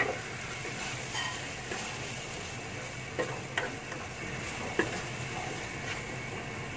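Chopped fresh chili paste sizzling in olive oil in a nonstick pan, stirred with a wooden spatula that knocks and scrapes against the pan several times, sharpest right at the start. The paste is being sautéed down until it is drier.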